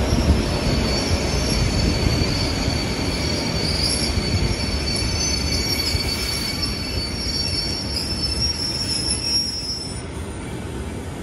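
Train rolling through a station, its steel wheels squealing on the rails: several steady high-pitched squeals over a low rumble of the wheels, dying away near the end.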